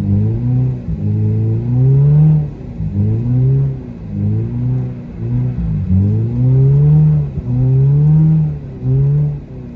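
A Subaru Impreza's flat-four engine revving hard over and over, rising in pitch for about a second each time and then dropping back, roughly once a second, as the car is thrown around in snow.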